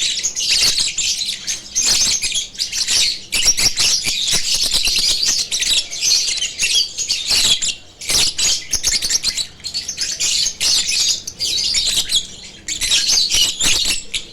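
Lovebirds chirping in a dense, shrill, almost unbroken chatter, with brief lulls about halfway and near the end.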